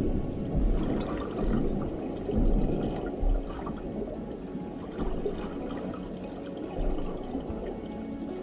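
Water sloshing and pouring in uneven surges, rising and falling every second or so.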